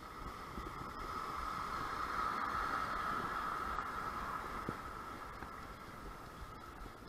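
Strong gusty wind rumbling on the microphone, with a rushing sound that swells about two to three seconds in and then fades.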